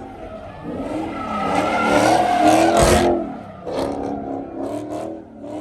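A car engine revving hard at a drift, its pitch rising to the loudest point about halfway through while the tyres squeal, then dropping off and blipping several more times.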